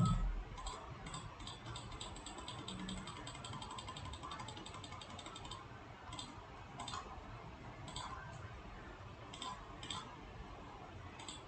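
Faint computer mouse clicks and scroll-wheel ticking, with a fast run of ticks between about two and five seconds in, then scattered single clicks.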